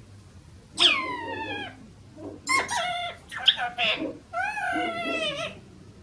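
Talking parrot vocalizing: a drawn-out call falling in pitch about a second in, then a quick run of short word-like syllables, then another long call that rises and falls near the end.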